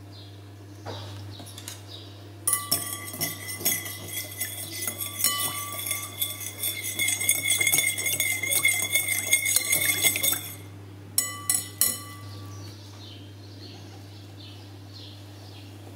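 Wire balloon whisk beating oil in a white ceramic bowl: rapid clinking of the wires against the bowl with a ringing note, for about eight seconds. This is followed by three sharp taps on the bowl.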